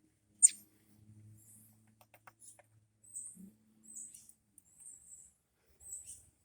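Young robin calling: one sharp, loud call sweeping downward about half a second in, then short high chirps about once a second.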